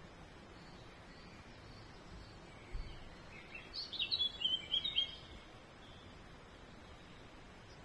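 A small songbird sings one short phrase of quick chirping notes about three seconds in, over faint steady outdoor background noise. A brief low bump comes just before the song.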